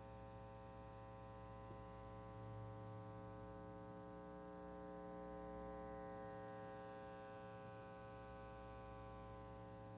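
Steady mains hum and buzz from a Nuprime AMG PRA preamp, a low hum with a stack of buzzy overtones that holds unchanged. It is faint. The owner calls it static noise and puts it down to the unbalanced RCA input and output connections.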